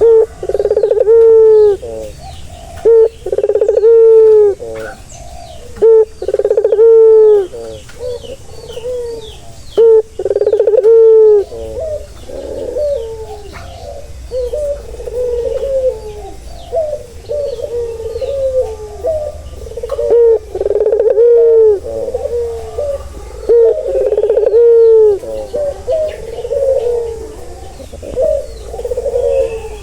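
Male ringneck doves (burung puter) cooing over and over, loud arched coos in phrases of a second or two, sometimes overlapping.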